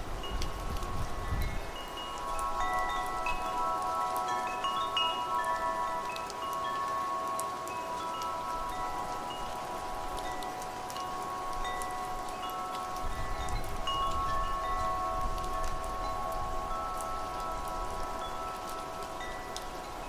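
Metal wind chimes ringing in the wind, several tones overlapping and ringing on, with quick higher pings scattered among them. A steady hiss of rain sits underneath, and low wind gusts rumble at the start and again about two-thirds of the way through.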